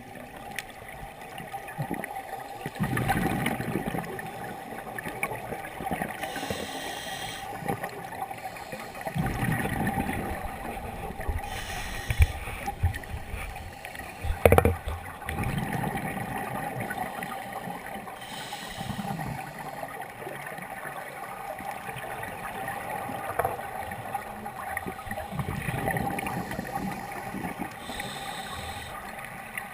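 A scuba diver breathing underwater through a regulator: a short hiss on each inhale, then a longer bubbling rumble as the breath is exhaled, repeating about every five to six seconds.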